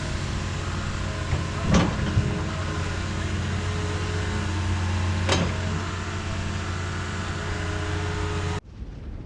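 A motor vehicle's engine runs steadily with a low hum, with two sharp knocks over it. The sound cuts off suddenly near the end.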